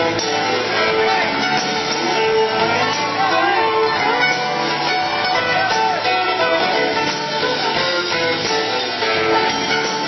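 Rock band playing an instrumental passage, with plucked and strummed guitars to the fore and no singing.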